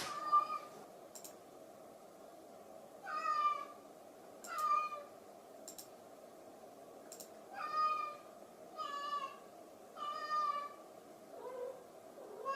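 Domestic cat meowing over and over: about seven drawn-out meows a second or two apart, calling after its owner as she goes. A few faint clicks fall between them.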